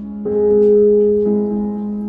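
Background piano music: sustained chords, with a new chord about every second.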